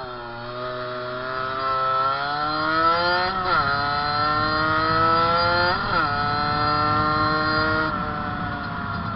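Fantic 50cc two-stroke motorcycle engine run hard at full throttle, the revs climbing steadily and falling sharply with an upshift twice, about three and a half and six seconds in. Near the end the throttle eases and the revs level off.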